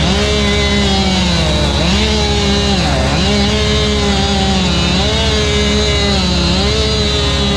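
Chainsaw running at high revs, its pitch dipping and recovering every second or so as it loads up in the cut, over a second, steady engine note.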